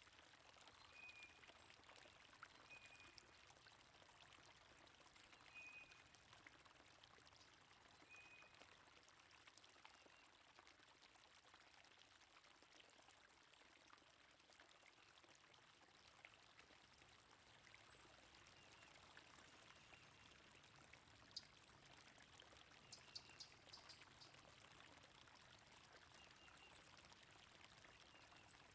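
Faint steady rush of flowing stream water, with short high bird chirps now and then.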